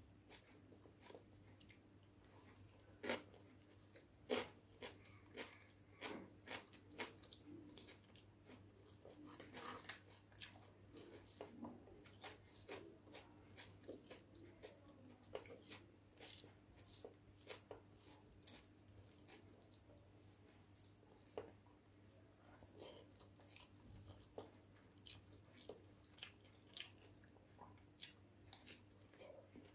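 Close-up eating sounds of a person eating egg biryani with gravy by hand: chewing mouthfuls of rice with many short, wet mouth clicks and smacks, and fingers squishing the rice and gravy. A faint steady hum lies underneath.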